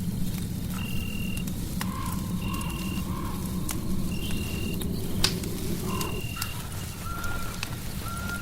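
Crackling fireplace: a steady low rush with scattered sharp pops and snaps, overlaid by short high-pitched tones that recur every few seconds.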